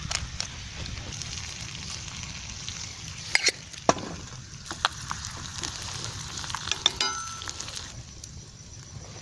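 Wood fire crackling in a campfire stand, a steady hiss of small crackles with a few sharper pops.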